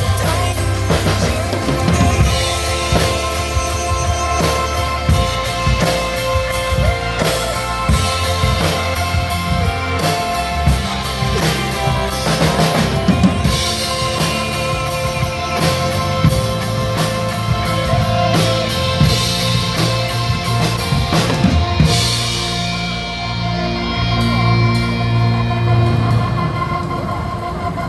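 Drum kit played along to a recorded pop backing track, with kick, snare and cymbal strokes over the music. About 22 seconds in the drumming stops while the backing music plays on.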